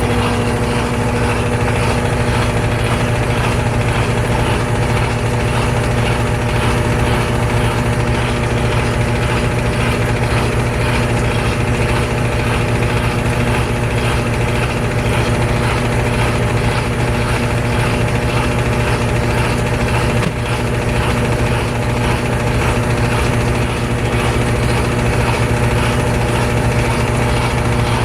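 GE Spacemaker GUD24ESSM1WW laundry center's top-load washer in its final spin, the tub spinning at a steady speed with a constant motor hum.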